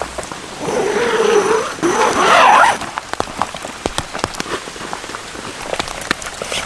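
Raindrops ticking steadily on tent fabric. A louder, wavering rustle starts about half a second in and lasts about two seconds.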